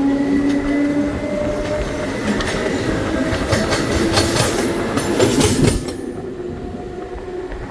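Belo Horizonte Metro Série 900 electric train running along the track, with a steady whine early on and a run of clicks and clatter over the rails through the middle. The sound drops suddenly about six seconds in.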